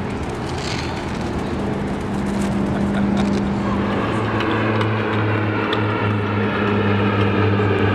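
A motor's steady drone with a low hum and a row of overtones, growing louder from about halfway through as it comes closer.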